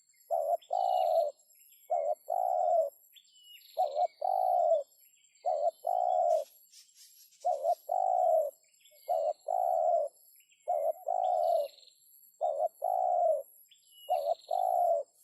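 Spotted dove cooing over and over, each phrase a short note followed by a longer one, repeated about every one and a half seconds. Small birds chirp faintly behind it over a steady thin high whine, with a brief rustle about six and a half seconds in.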